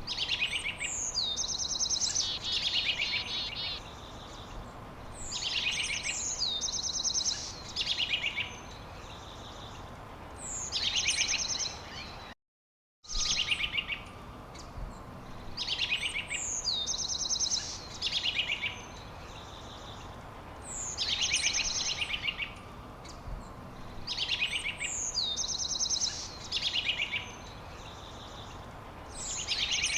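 A songbird singing the same short, high phrase over and over, one phrase every four to five seconds, over a steady background hiss. The sound cuts to silence for under a second about twelve seconds in.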